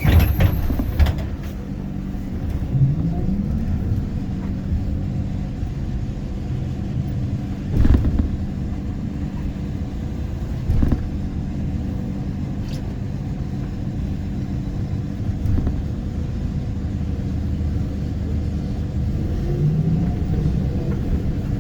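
ZiU-682G trolleybus riding, heard from aboard: a steady low rumble and hum of the running vehicle. A few sharp thumps come near the start and again about 8, 11 and 15 seconds in. A short rising whine comes about 3 seconds in and again near the end.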